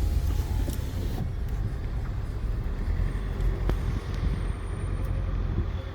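Car driving on the road, heard from inside the cabin: a steady low rumble of engine and tyres, with a brief hiss in the first second.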